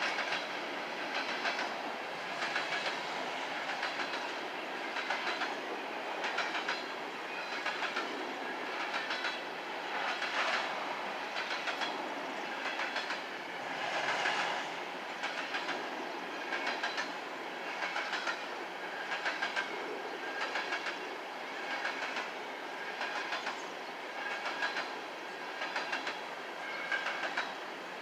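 Empty coal hopper cars rolling past, their wheels clicking over the rail joints in a steady repeating clickety-clack about every second and a half, with a faint high metallic ringing above it.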